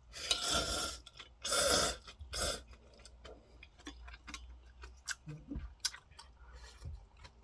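A person eating Neoguri instant ramen noodles: three short noisy bursts of eating in the first two and a half seconds, then chewing with soft mouth clicks.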